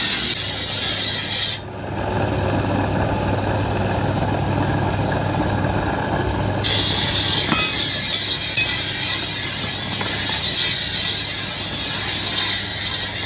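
Continuous abrasive rasping on metal over a steady low hum. The sound changes abruptly about a second and a half in, turning duller without its high hiss, and the hiss returns about six and a half seconds in.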